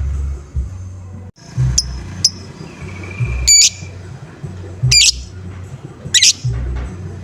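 Lovebird giving sharp, squawking 'ngoek' calls, one about every second and a half, over background music with a steady bass beat. The audio cuts out for a moment just before the calls begin.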